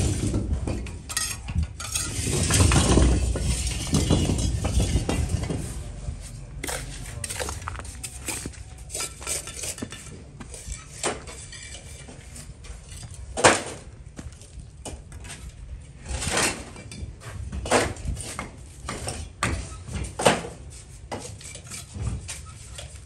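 Irregular clinks and knocks of tools on hard building material during house renovation work, with a louder rush of scraping noise a couple of seconds in.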